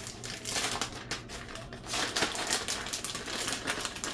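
A Parmesan cheese container being shaken and tapped: a quick, uneven run of clicks and rattles. It is loudest in two spells, about half a second in and again about two seconds in.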